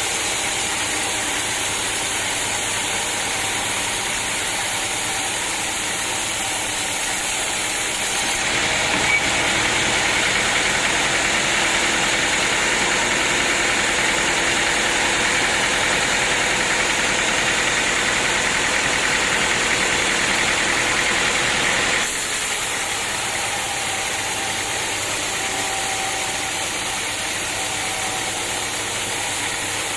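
Sawmill machinery running steadily. It grows louder and hissier for a stretch in the middle, which starts and stops abruptly.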